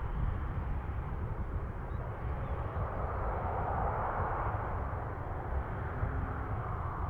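Aircraft engine noise: a steady rush that swells about halfway through, over a low rumble.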